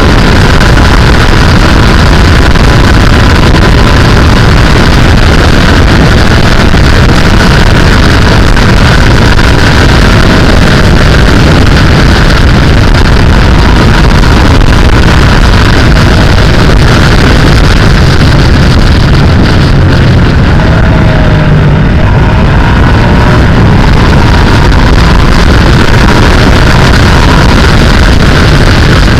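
Sportbike engine running at road speed under heavy wind rush on the microphone, loud and steady, with a faint engine whine whose pitch shifts a little about twenty seconds in.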